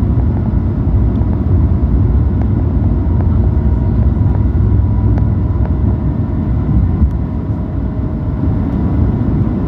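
Airliner during take-off: a loud, steady low rumble with faint steady whining tones above it.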